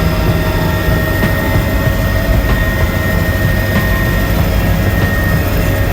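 Helicopter in flight: a steady, loud turbine and rotor noise with a low pulsing rumble and a constant high whine.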